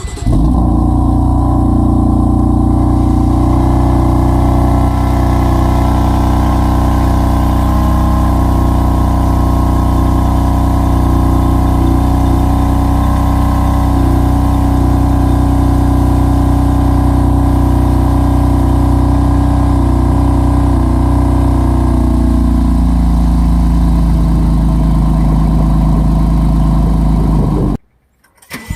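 Cold start of a 2016 BMW F80 M3's twin-turbo straight-six: the engine fires and holds a loud, steady high idle, which steps down to a lower idle about 22 seconds in. The engine is switched off shortly before the end. The loud cold-start idle comes from the secondary air pump feeding the exhaust manifold to heat the catalytic converters quickly.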